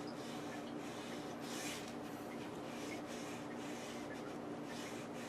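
Faint steady hum with light rubbing and handling noise, and a brief soft hiss about a second and a half in.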